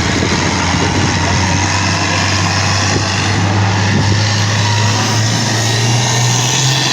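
Pulling vehicle's engine running hard under load as it drags the weight sled down the track: a loud, steady engine noise whose low pitch sags a little and climbs again near the end.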